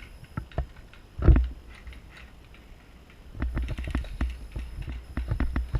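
A single loud knock about a second in, then from a little past the middle a quick run of footsteps with gear rattling, about four to five steps a second over a low rumble.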